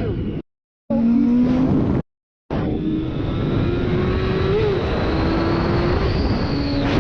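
Motorcycle engine running at a steady cruise, with road and wind noise. In the first two and a half seconds the sound drops out completely twice, then runs on with the engine pitch creeping slowly upward.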